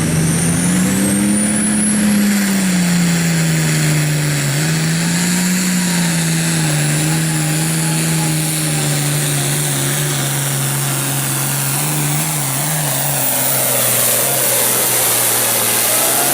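Limited Pro Stock pulling tractor's turbocharged diesel running loud at full power under load down the pull track. The engine note climbs over the first couple of seconds, sags and recovers about four seconds in, then holds, with a high whine rising early on.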